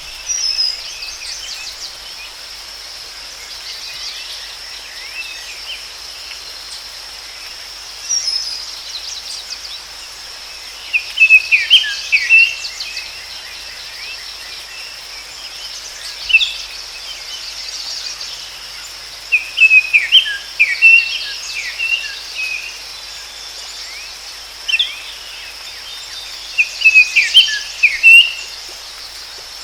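Forest ambience: a songbird sings short chirping phrases about every eight seconds over a steady, high-pitched insect drone.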